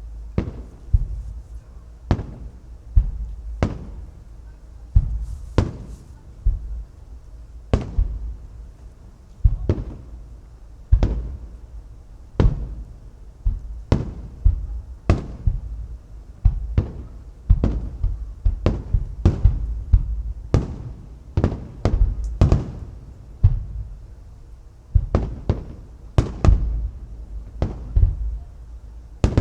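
Aerial firework shells bursting in steady succession over water: sharp booms about one to two a second at irregular spacing, with a low rumble of echoes between them.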